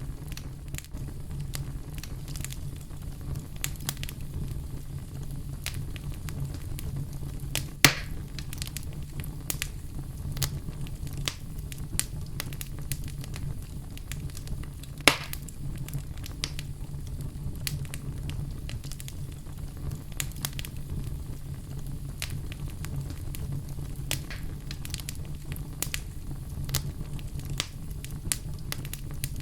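Wood fire burning in a fireplace: a steady low rumble of the flames with irregular crackles and snaps, two louder pops about eight and fifteen seconds in.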